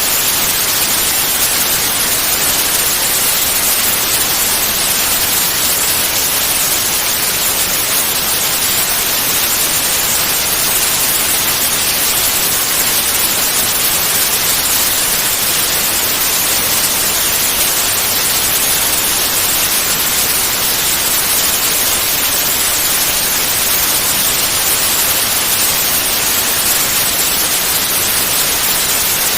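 Steady, continuous white noise: an even hiss with no changes or breaks.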